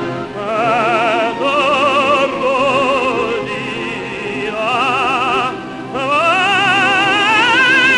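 Operatic tenor singing with wide vibrato. After a short break about five and a half seconds in, he slides up into a long held high note.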